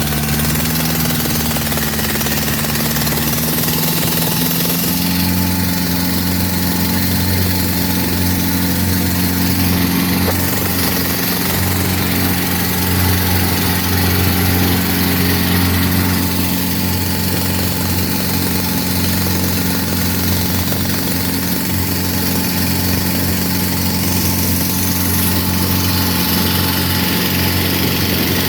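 Boat engine running steadily, its pitch rising slightly over the first few seconds and then holding even, with a constant rushing noise behind it.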